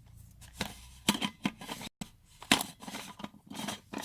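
Irregular clicks and light knocks from a portable manual coffee grinder's parts being handled and screwed together.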